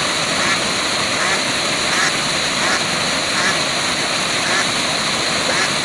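Waterfall rushing steadily, with faint short animal calls repeating about every three quarters of a second.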